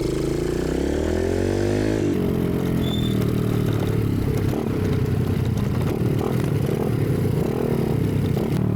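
Dirt bike engine revving, its pitch climbing over the first two seconds, then running on steadily with a rougher sound.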